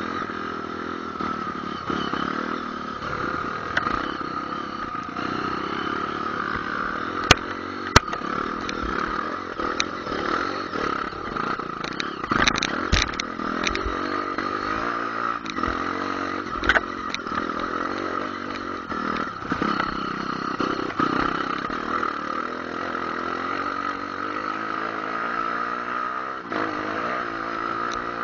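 Trail motorcycle engine running while riding, its pitch rising and falling with the throttle, with scattered clattering and two sharp knocks about seven and eight seconds in.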